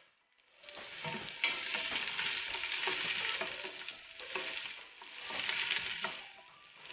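Chopped ingredients sizzling in hot oil in a stainless steel pot while being stirred, with a few scraping clicks. The sizzle starts about half a second in and swells loudest in two surges.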